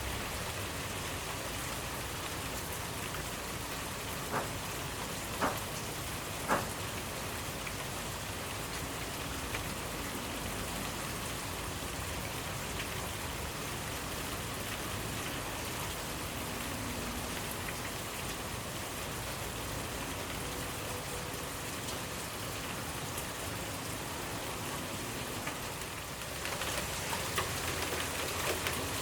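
Steady rainfall, an even hiss with a few louder single drops landing about four to seven seconds in. Near the end the rain grows a little louder, with more distinct drops.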